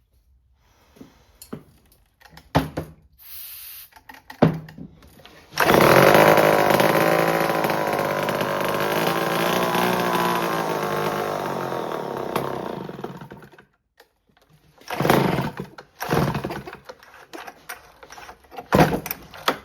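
Homelite C5 two-stroke chainsaw being pull-started: after a few pulls it catches a few seconds in, runs for about eight seconds while slowly fading, and dies, then a couple more pulls fail to catch. It runs only on the shot of fuel primed into it, which the owner puts down to a carburettor needing a rebuild.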